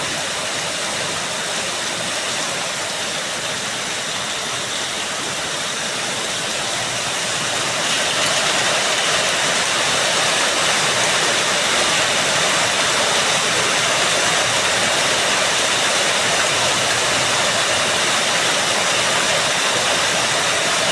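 Heavy rain falling in a steady hiss, getting louder and heavier about eight seconds in.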